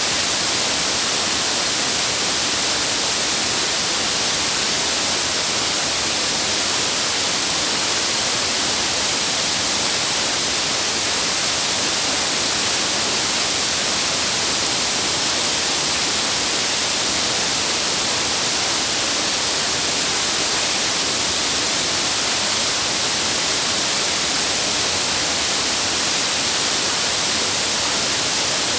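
Waterfall rushing: a loud, steady hiss of falling water with no change throughout.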